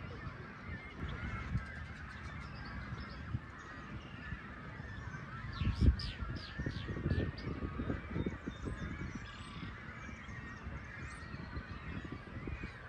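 Geese honking, a continuous chorus of many overlapping calls. About six seconds in, a short run of high, sharp calls from another bird and a loud low thump stand out.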